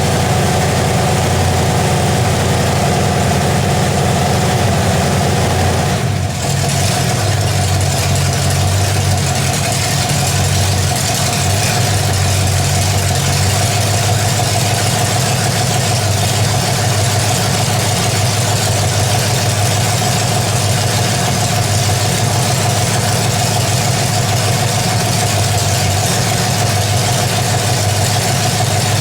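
Newly built Chevy small-block 350 V8 with an RV cam, upright headers and a Holley 600 four-barrel carburettor idling steadily, with one brief dip in the sound about six seconds in.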